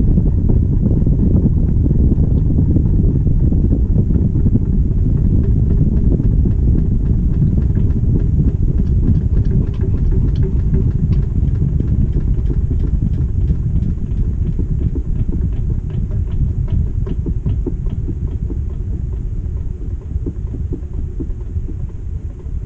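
Final spin of a GE top-load washing machine heard from inside the tub, from a camera on the agitator: a heavy, rushing rumble that slowly dies away as the basket coasts down at the end of the high-speed spin. A fast, light clicking runs through it from about a third of the way in.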